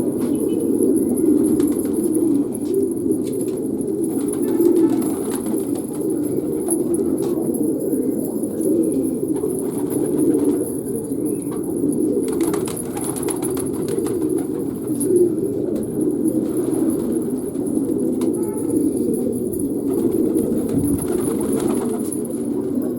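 A flock of domestic fancy pigeons cooing at once, many overlapping coos without a break, with a faint steady high-pitched tone behind them.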